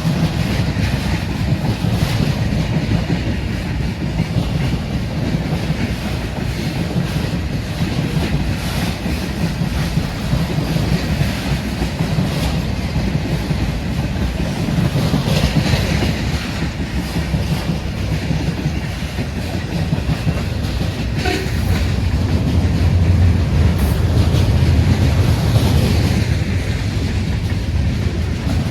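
A freight train passing, its cars rolling by with wheels clicking over the rail joints and a steady rumble that grows louder in the last third.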